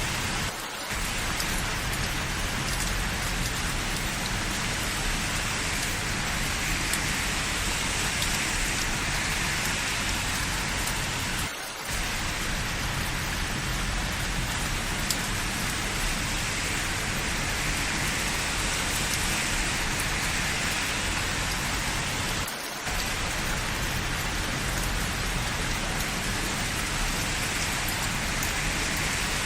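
Steady, dense rain falling, an even hiss with no let-up, dipping briefly in loudness three times about eleven seconds apart.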